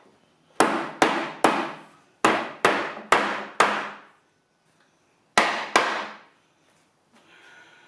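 A cloth-wrapped rubber mallet striking a wooden table frame: nine hard knocks in three bursts of three, four and two blows, each ringing briefly. The blows are meant to drive the tabletop and base together to close a gap that makes the leg wobble.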